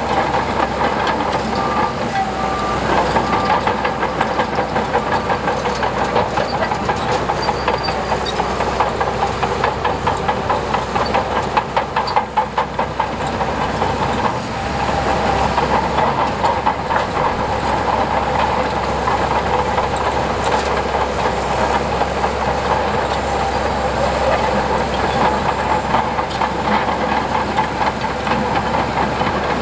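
Tracked earthmoving machine working: its diesel engine running steadily under a dense, rapid metallic clatter of steel crawler tracks, easing briefly about halfway through.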